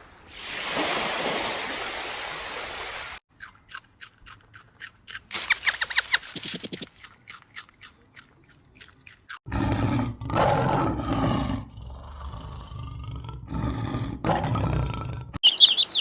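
A run of separate animal sound clips: a noisy rush, then quick clicking. About ten seconds in come several long, deep roars from a large wild animal, the loudest part.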